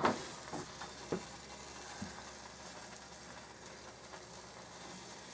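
Buttered grilled cheese sandwich frying on a griddle: a faint, steady sizzle, with a light tap about a second in.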